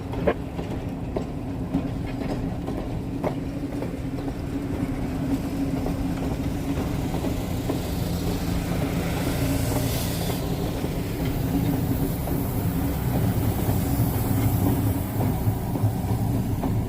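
Passenger train running: a steady low rumble and hum with scattered clicks from the wheels, and a hiss that swells up and fades about eight to eleven seconds in.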